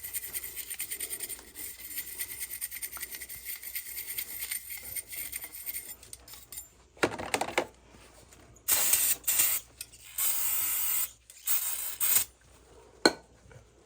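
Toothbrush scrubbing soot off an oil burner part in quick, even strokes, followed by four short hissing bursts and a click near the end.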